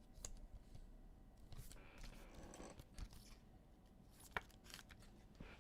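Faint rustling and a few soft clicks of trading cards and pack wrappers being handled, with one sharper click near the end.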